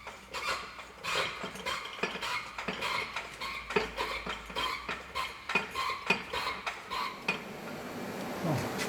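Metal tools and parts clinking and clattering in a series of short, irregular knocks.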